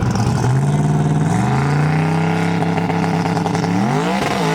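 A drag-race car's engine held at a steady raised rpm, then revved sharply about four seconds in and dropping straight back.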